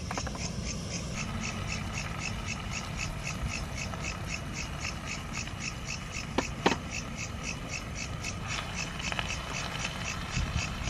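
Steady rhythmic chirping at about five pulses a second, over a low rumble. Two sharp knocks come about six and a half seconds in.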